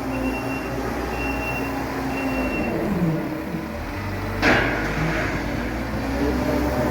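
Farm vehicle engine running while it works the silage pit, with a reversing alarm beeping about every half second for the first few seconds. The engine note drops about three seconds in, and a short sharp hiss follows soon after.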